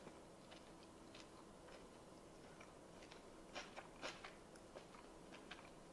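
Near silence with faint, scattered small clicks of a person chewing a mouthful of food, a few slightly louder ones clustered between about three and a half and four and a half seconds in.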